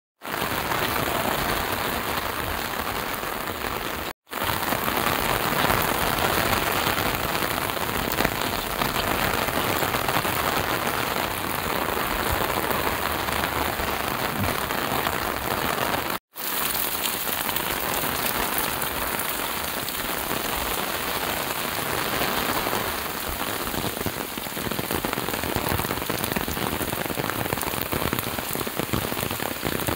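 Heavy rain falling steadily on wet pavement and parked cars. A dense, even hiss is broken by two brief cut-outs to silence, about 4 and 16 seconds in.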